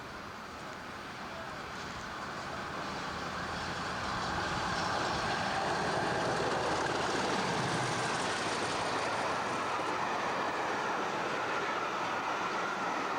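British Rail diesel train approaching and running past on the rails, growing louder over the first few seconds and then holding steady.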